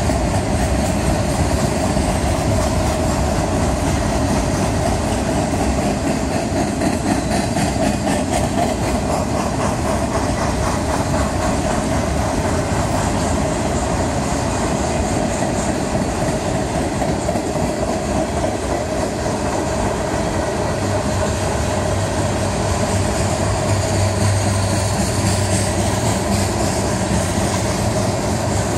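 Freight train cars rolling past on the main line: a steady noise of steel wheels on rail, with clickety-clack over the rail joints. A low hum joins about two-thirds of the way through.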